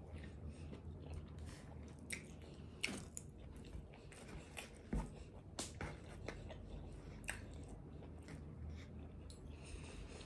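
Quiet close-up chewing of a forkful of a rice-and-meat burrito bowl, with scattered sharp little clicks and a fork scooping food from the bowl partway through.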